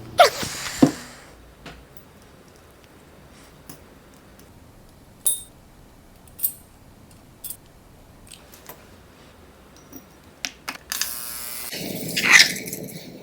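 Small clicks and light metallic ticks of tweezers and tiny watch parts being handled while a part is cleaned, with one ringing tick about five seconds in. There is a loud swishing sound at the start, and near the end a short buzz followed by a louder rushing sound.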